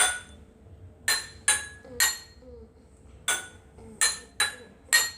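Drinking glasses holding different levels of liquid being tapped one after another: eight sharp clinks, each ringing briefly, in an uneven pattern with short pauses between groups.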